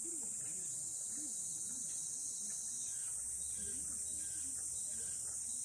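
Steady, high-pitched drone of an insect chorus, unbroken throughout, with faint distant voices underneath.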